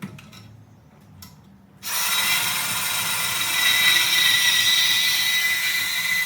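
A few light handling clicks, then about two seconds in a power tool starts cutting through exhaust pipe, running steadily with a high, hissing whine.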